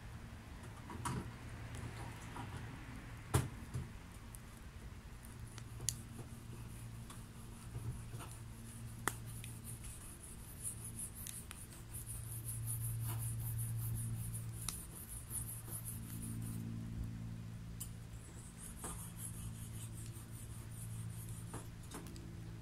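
Swedish torch log fire burning, with scattered sharp crackles and pops over a steady low hum and an on-and-off high hiss.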